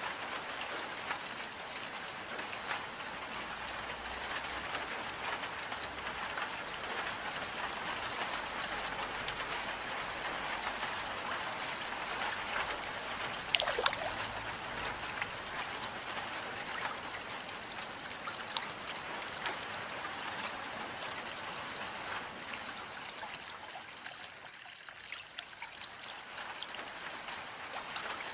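Steady rain with water trickling and dripping: a continuous hiss dotted with small drop ticks, and one louder drip about halfway through.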